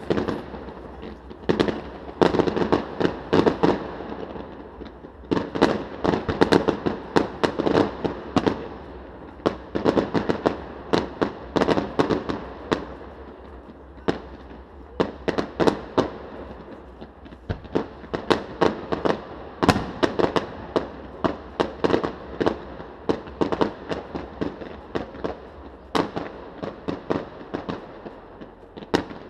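Fireworks display: a dense barrage of bangs and crackles from bursting shells, several a second, over a continuous rumble.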